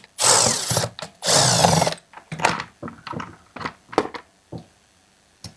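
A power drill-driver run in three short bursts of under a second each, followed by scattered clicks and light knocks of small parts being handled.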